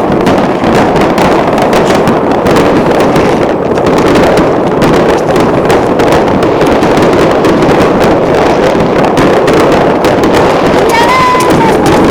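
Dense, continuous barrage of fireworks: many overlapping bangs and crackles blending into a loud rumble, with a brief whistling tone near the end.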